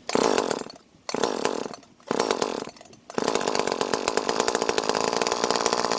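Echo CS-305 chainsaw's two-stroke engine firing in three short sputtering bursts, then catching and running steadily from about three seconds in. The owner suspects he gave it too much fuel.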